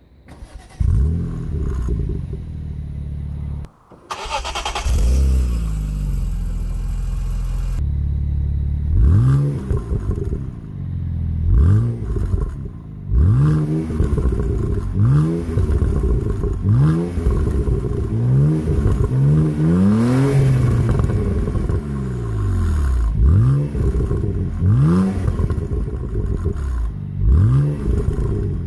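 BMW Z4's straight-six engine starting up and running, then revved over and over, the revs climbing and dropping back roughly once a second.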